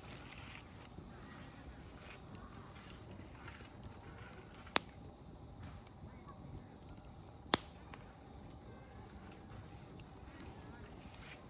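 Wood campfire burning with a low steady crackle, broken by two sharp pops of splitting firewood about three seconds apart, the second a little under halfway through. Crickets trill faintly in a steady pulsing chirp behind it.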